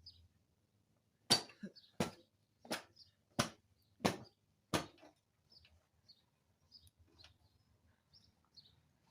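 Six evenly spaced knocks, about one every 0.7 seconds, followed by faint bird chirps.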